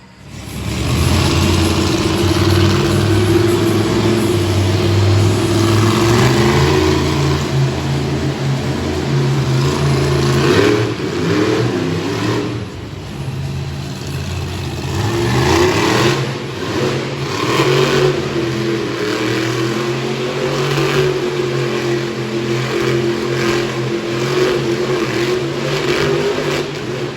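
Monster truck engine running hard and revving up and down repeatedly during a donuts run, with rising and falling pitch swings around the middle.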